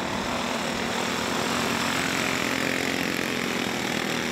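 Several small single-cylinder cage kart engines racing around a dirt oval, a steady buzz of engines with one swelling louder about two seconds in as karts pass.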